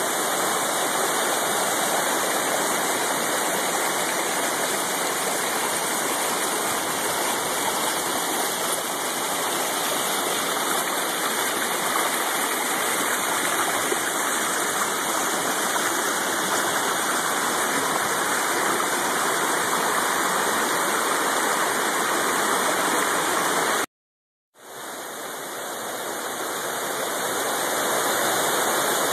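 Waterfall rushing with a steady, even roar. Near the end it breaks off to silence for a moment, then fades back in.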